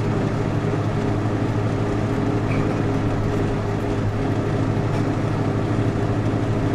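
Vehicle cabin noise while driving: a steady engine drone with road and wind noise, holding an even pitch and level throughout.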